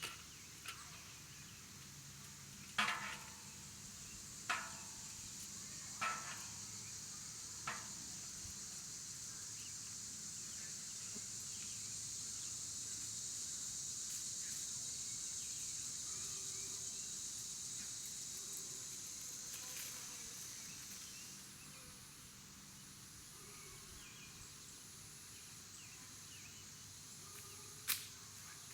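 Insects buzzing in a steady high drone that swells and then stops about two thirds of the way through, followed by a faster pulsing high trill. Four sharp chirps or clicks come in the first eight seconds and one more near the end.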